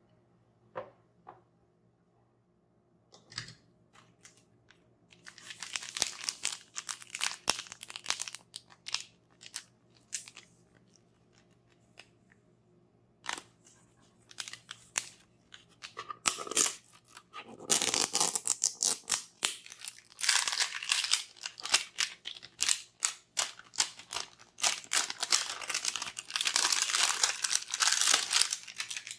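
Toy packaging being torn open and crinkled by hand: a few light clicks, then long runs of dense crackling and ripping.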